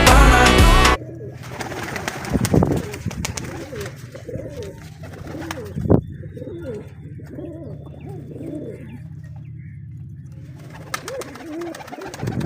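A pop song cuts off about a second in, then domestic pigeons coo over and over, with a steady low hum under them and a couple of sharp knocks.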